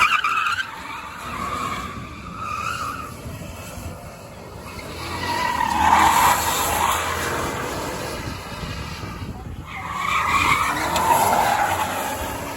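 A car doing donuts, its tires screeching and its engine revving, growing loudest in two swells, about six seconds in and again about ten seconds in.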